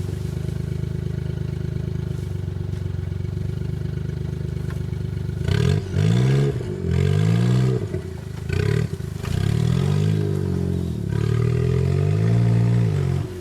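Suzuki Jimny JA11's small engine idling steadily, then from about five seconds in revved up and down in five or so bursts, each rise and fall in pitch lasting one to two seconds.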